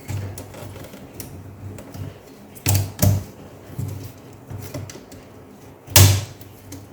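Plastic laptop keyboard being pried out of its locking clips, with small clicks and scrapes, two sharp snaps close together near the middle and a louder snap near the end as the clips let go.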